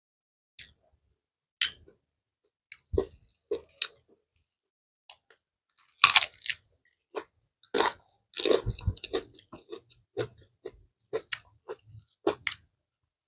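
Close-miked chewing of a hand-eaten mouthful with raw greens: irregular sharp crunches and clicks, with a loud bite about six seconds in and a dense run of chewing a couple of seconds later.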